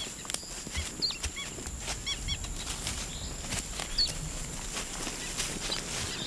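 Woodland ambience: small birds chirping in short calls, a quick run of chirps about two seconds in, with footsteps and scuffs on a rocky path during the first couple of seconds and a thin steady high tone underneath.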